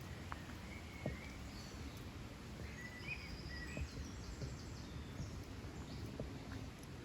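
Outdoor nature ambience: a steady low rumble with a few faint, short bird chirps between about one and four seconds in, and scattered soft clicks.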